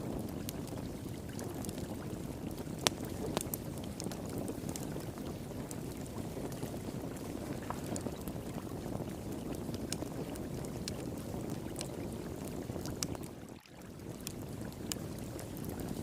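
Wood fire pit crackling with scattered sharp pops, one louder pop about three seconds in, over steady rushing flowing water. The whole sound briefly drops away for a moment near the end.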